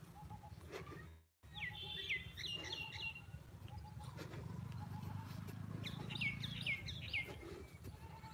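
Birds chirping: a quick series of sharp down-slurred whistled notes about two seconds in, and again about six seconds in, over a steady low rumble. The sound cuts out completely for a moment about a second in.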